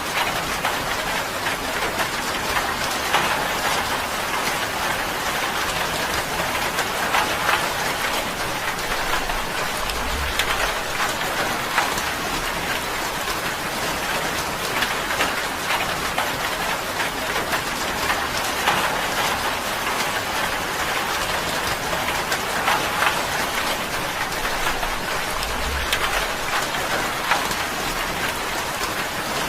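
Steady rain falling on a tin roof: a dense, even patter of drops hitting the metal.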